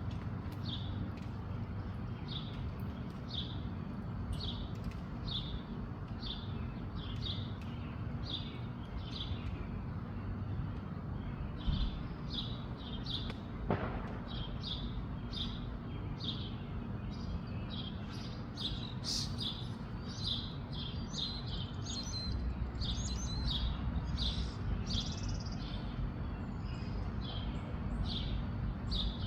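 Small songbird chirping repeatedly, about one short chirp a second, coming quicker in the second half, over a steady low rumble of wind.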